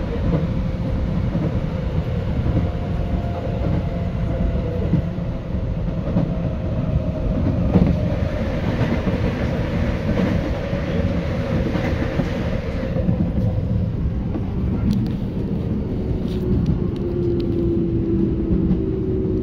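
Keio 8000 series electric train running, heard from inside the car: steady rumble of wheels on rail with the whine of its Hitachi GTO inverter drive, thin tones slowly falling in pitch. A brighter hiss rises for a few seconds in the middle, and a few sharp clicks come near the end.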